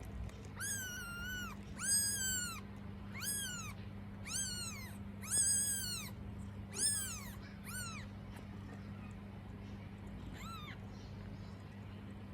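A kitten mewing: a run of about seven high-pitched mews, each rising and falling, over the first eight seconds, then one fainter mew a couple of seconds later.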